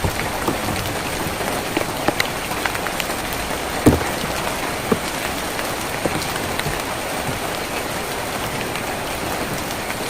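Rain falling on a tin roof: a steady patter with scattered sharper drip hits, the loudest one about four seconds in.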